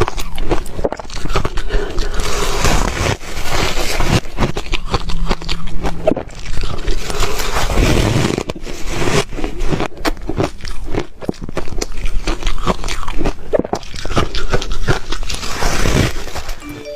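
Ice being bitten and chewed close up: a dense run of irregular crunches and cracks as the pieces break between the teeth.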